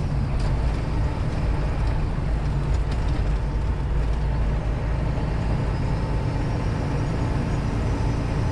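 Semi-truck's diesel engine and road noise, a steady low drone at highway driving.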